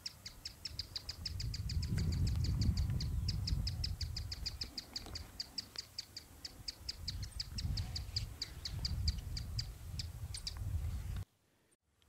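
A small bird calling a long, steady series of short high chips, about six a second, over low wind rumble on the microphone. The sound cuts to silence about a second before the end.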